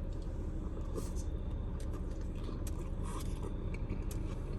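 Someone chewing a beef taco, soft wet clicks and crackles of mouth and food, over a steady low rumble.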